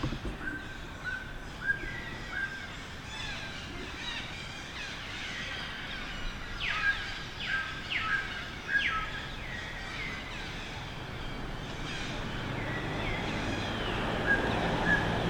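Baby macaque crying: repeated short, high-pitched squeals, each sliding down in pitch, coming in quick runs about halfway through. A low, steady rumbling noise builds up underneath near the end.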